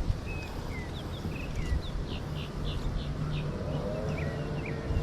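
Small birds chirping outdoors: short high notes and quick downward-hooked calls, with a run of rapid repeated chirps in the middle, over a low rumble of outdoor background noise. A faint steady drone joins about three and a half seconds in.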